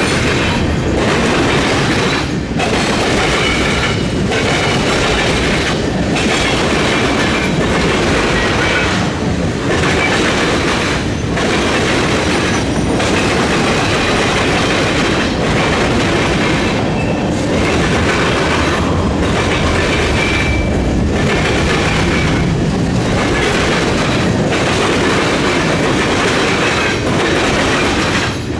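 Freight train cars rolling past at a railroad diamond, their wheels clattering over the crossing in a steady, regular rhythm, with a faint wheel squeal now and then.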